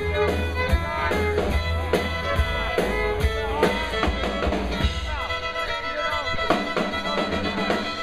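Live band playing amplified rock music, a fiddle carrying bending lines over a steady drum-kit beat.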